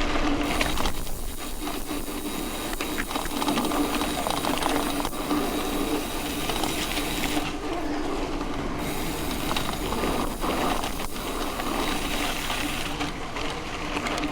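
Mountain bike rolling along a dirt road: tyres on gravel with small clicks and rattles from the bike, over a steady hum.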